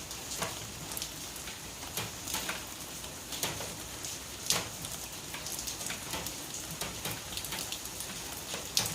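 Steady rain falling, with scattered louder drops striking a surface about once a second.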